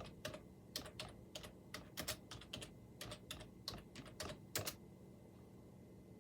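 Faint computer keyboard typing: irregular key clicks, a few a second, that stop near the end.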